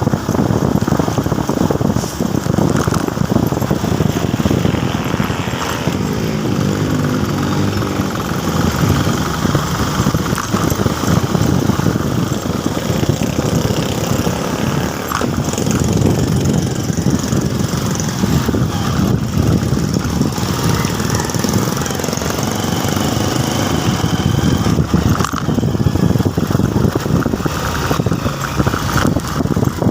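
Motorcycle engine running while riding, with a steady rush of road and wind noise.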